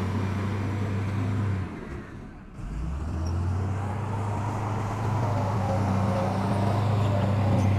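Heavy diesel engine of earthmoving machinery running steadily with a low hum. It drops away briefly about two seconds in, then resumes.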